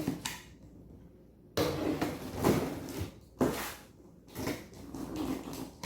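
Cardboard box and packaging being opened and handled: scraping and rustling that starts abruptly about a second and a half in and goes on in uneven surges.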